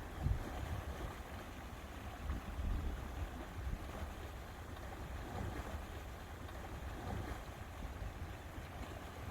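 Lakeside ambience: water lapping, with wind buffeting the microphone in irregular low rumbles, strongest about a third of a second in and again around two and a half seconds in.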